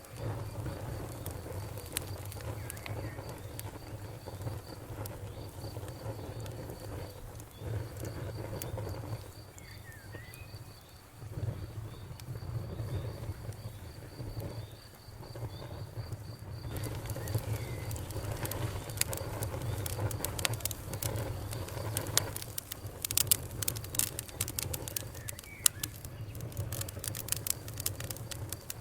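Wood fire burning in a fireplace: a steady low rumble of the flames with scattered crackles and pops, which come thick and fast in the second half. A faint, high, evenly repeated chirp sounds through the first half and stops about halfway through.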